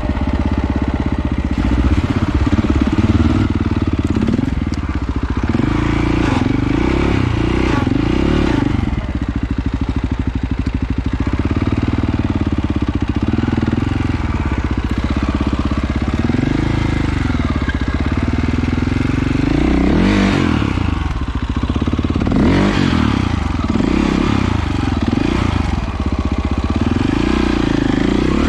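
Off-road motorcycle engine under way, its pitch rising and falling over and over as the throttle is opened and closed.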